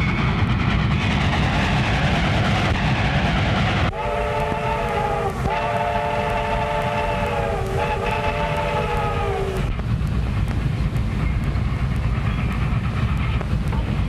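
A train running on the rails, a steady rumble with rapid regular clicking. Its whistle blows three long blasts, run almost together, from about four seconds in to nearly ten seconds.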